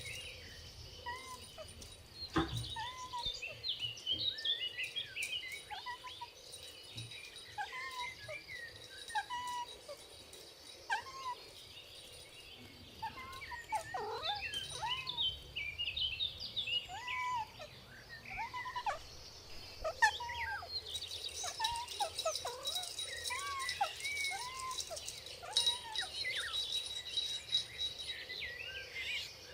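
Outdoor animal calls: a string of short, arched calls repeating roughly once a second, mixed with higher bird-like chirps. A steady high thin tone joins about two-thirds of the way in.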